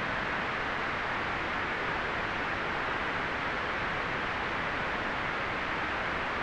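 Steady, unchanging white noise: an even hiss centred in the mid range, with little top treble, and no gusts, clicks or pauses.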